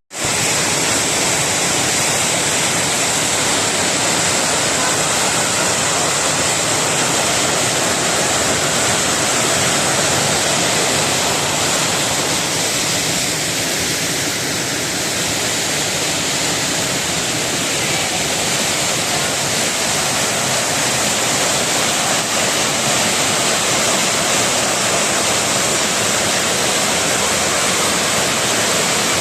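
Waterfall rushing with a steady, loud hiss of falling water and no break.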